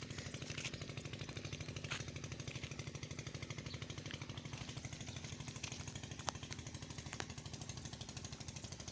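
A small engine runs steadily with a rapid, even beat. A few faint sharp clicks come through at times.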